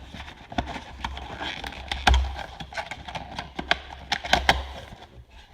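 Handling of the model's box packaging as its cover is pushed back inside: a run of clicks, taps and rustles, with a heavier knock about two seconds in and a quick cluster of clicks about four seconds in.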